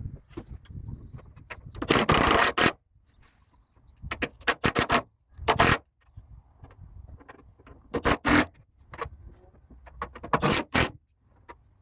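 Irregular scrapes and short sharp clicks of tools and metal parts being handled on a truck's hydraulic cylinder, as its cover plate is refitted and tightened.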